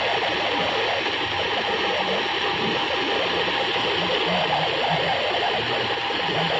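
AM radio tuned to 810 kHz at night, giving steady hissing static with a faint steady whistle in it.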